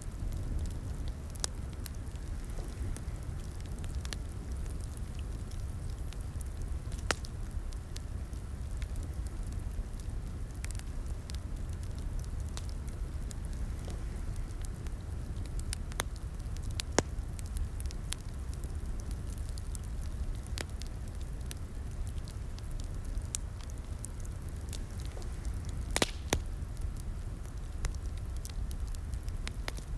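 Wood fire in a fireplace crackling: a steady low rumble with sharp pops scattered at irregular intervals, and a few louder pops close together near the end.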